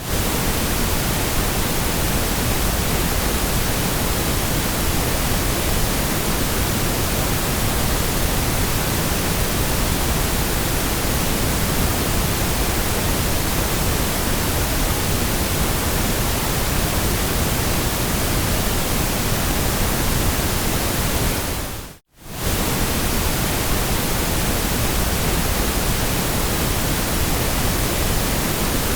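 Steady white noise, an even hiss spread across low and high pitches, played as a sleep sound for calming a baby. About 22 seconds in it fades out to a moment of silence and straight back in.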